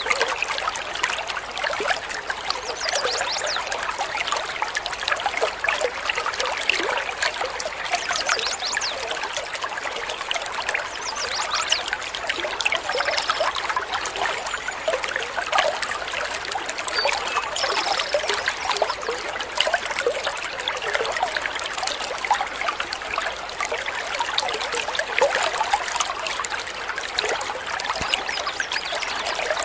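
Running water trickling and splashing steadily, a dense patter of small droplets with no pauses.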